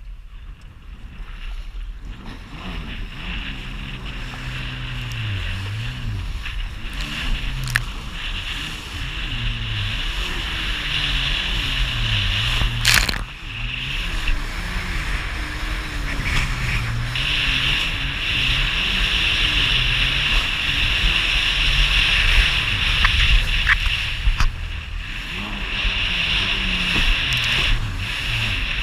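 Jet ski engine running at low speed, its pitch rising and falling over and over as the throttle is worked, over a steady hiss of wind and water. A few sharp knocks cut through, the loudest about thirteen seconds in.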